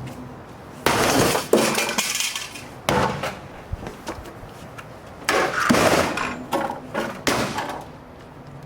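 A series of heavy blows, about eight over several seconds, each with a short clattering ring, as an Electrolux refrigerator's ice maker is being smashed apart. The ice maker holds up under the strikes.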